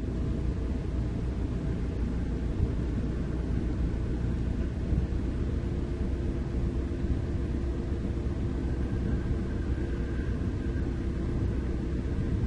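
Heavy diesel engine running steadily with a low rumble; a faint steady higher tone joins about halfway through.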